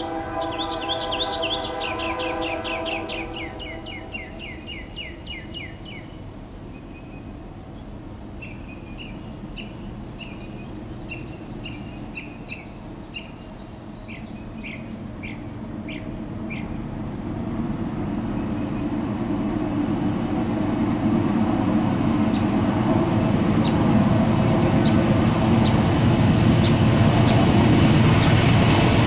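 A diesel freight train's horn chord ends about three seconds in, with birds chirping through the first half. The rumble of the train's approaching GE diesel locomotives then grows steadily louder from about halfway through and is loudest near the end.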